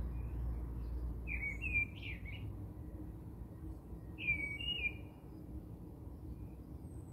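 A bird chirping in two short phrases of two or three quick notes, about a second in and again at about four seconds. A low rumble sits underneath during the first two seconds.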